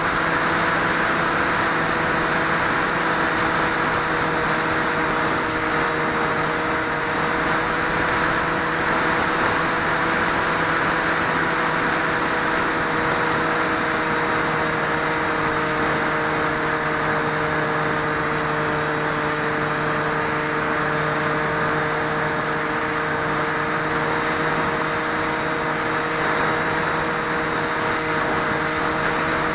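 Swift 2 flying wing's electric motor and propeller, heard from the onboard camera: a steady whine that shifts a little in pitch, over rushing wind noise.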